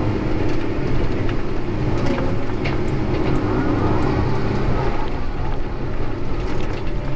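Heavy diesel equipment running steadily with a constant hum, with scattered light clanks over it.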